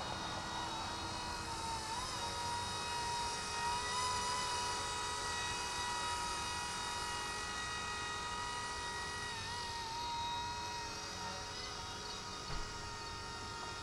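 Steady whine of a small RC ERA EC-135 electric RC helicopter's brushed motors and rotor in flight, its pitch wavering briefly a couple of times as the throttle is adjusted.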